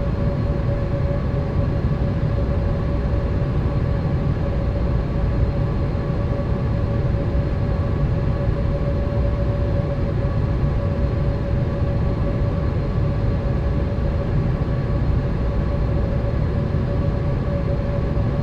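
Cabin noise inside a Boeing 787 in flight: a steady rush of air and engine drone, with a constant hum running through it.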